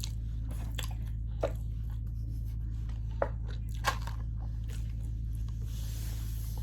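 Close-up chewing of fast food, with a few short sharp clicks and crunches spread through, over a steady low hum.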